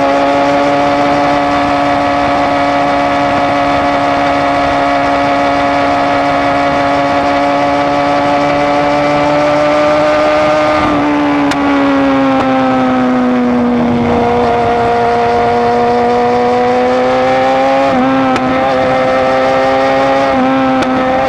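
BMW S1000RR's inline-four engine running loud through an Austin Racing exhaust under way, held at a steady high pitch that creeps up. About halfway through, the pitch drops and settles lower, and two brief stutters come near the end.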